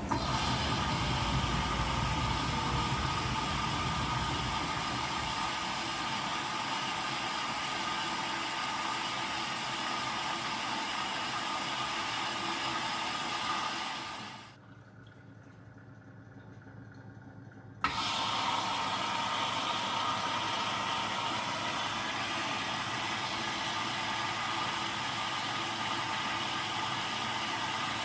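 Zanussi DL22 washing machine on a 90 °C boil wash, its motor turning the drum with a steady hum. About halfway through it stops for a few seconds, then starts again with a click, as the drum pauses between turns.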